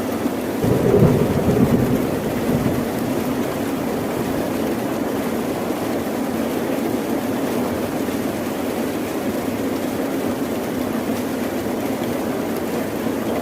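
Steady rain falling, with a low rumble of thunder swelling and fading in the first few seconds.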